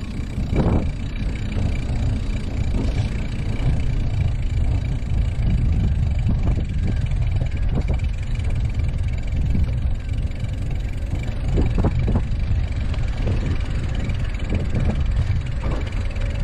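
Steady low rumble of wind and road noise while riding a bicycle, with a few faint short knocks.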